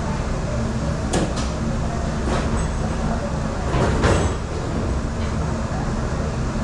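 Commercial dish machine in a kitchen dish room running with a steady low rumble, with a few sharp clatters of dishes or racks and a louder rush of noise about four seconds in.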